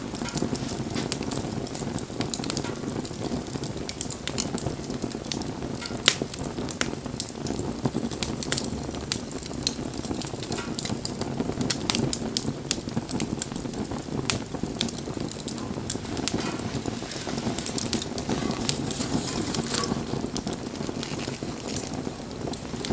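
Campfire burning: a steady rush of flames with scattered sharp crackles and pops, one louder pop about six seconds in.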